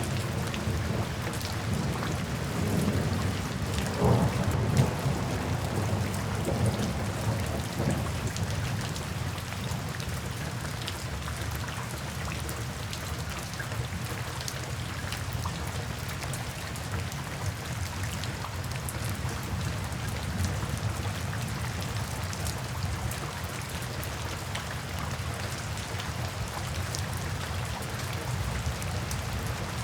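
Steady rain falling, with a low rumble of soft thunder rolling through the first several seconds.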